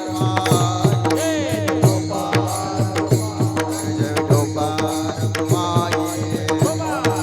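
Devotional kirtan music: a melody gliding up and down over a steady held drone, with a fast, even hand-drum beat and sharp percussive strikes.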